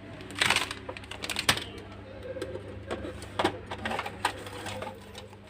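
Handling noises while a SATA-to-Molex adapter cable is unboxed: rustling of its packaging and a scattered series of sharp clicks and taps, over a steady low hum.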